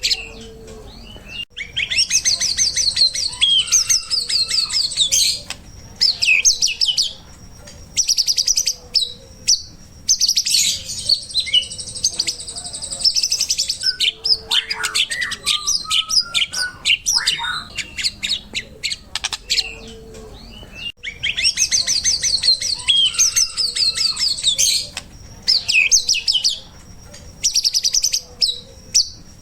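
White-rumped shama singing energetically: fast trills and chattering phrases, runs of rapid clicking notes, and a few lower whistled glides, with short pauses between phrases. The same passage recurs about every 20 seconds, as in a looped training recording.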